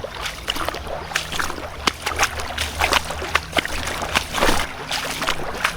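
Water sloshing and splashing around a canoe, with scattered short clicks and knocks.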